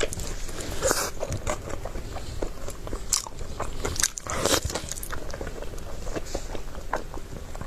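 A person biting and chewing food: irregular crunches and mouth clicks, with louder bites about one, three and four and a half seconds in.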